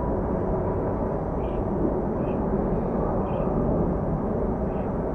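Widebody jet airliner's engines giving a steady, deep rumble.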